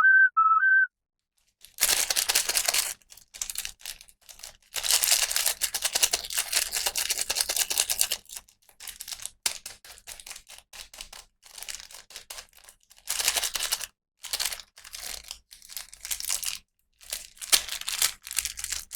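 Plastic toy packaging being unwrapped: irregular bursts of crinkling and tearing with short pauses between them. A brief whistled melody ends about a second in, before the crinkling starts.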